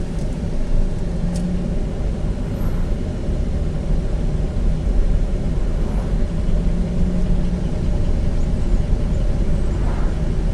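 Steady road and engine rumble inside the cabin of a moving SUV, with one brief click about a second and a half in.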